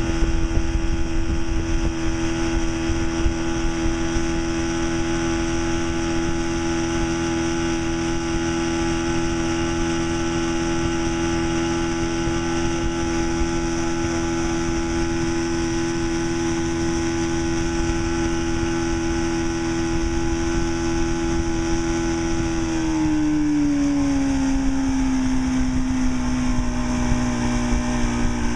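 Force 40 hp two-stroke outboard motor running steadily under way. About 23 seconds in, its pitch drops over a second or so as the engine slows, then holds steady at the lower speed.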